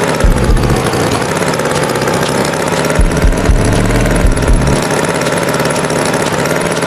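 Tractor engine running steadily, a loud idle with an uneven low chugging.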